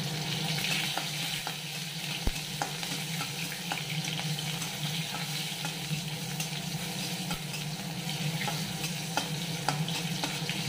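Sliced onion and chillies sizzling in hot oil in an aluminium kadai, stirred with a metal spatula that taps and scrapes against the pan now and then.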